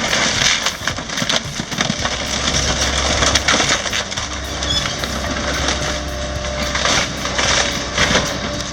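Timber walls of a house cracking and splintering as a demolition excavator crushes them: a dense, irregular run of sharp snaps and crunches over a low, steady rumble.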